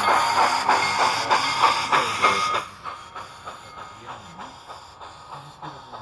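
Model Pennsylvania K4 steam locomotive running with passenger cars. A loud steady hiss drops away suddenly about two and a half seconds in, and a rhythmic clicking of the running train goes on throughout.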